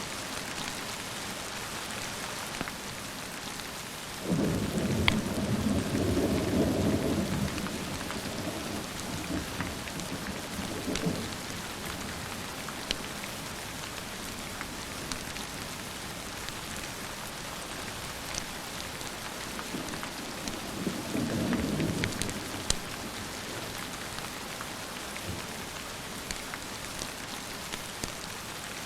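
Steady rain with two rolls of thunder: a longer low rumble starting about four seconds in that dies away over several seconds, and a shorter one past the middle.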